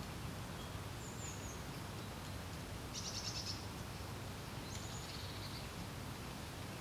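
Steady wind with a low rumble, over which small songbirds call: a thin high note about a second in, a quick high trill around three seconds, and another high falling call near five seconds.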